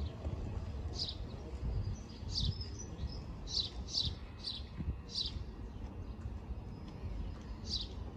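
A small bird chirping repeatedly, with short high calls coming about once or twice a second, over a low rumble.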